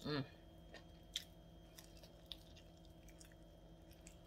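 Someone eating a crispy garlic parmesan chicken wing: faint crunches and smacks of chewing, a few spread over the first two and a half seconds. A brief sound of the voice comes right at the start.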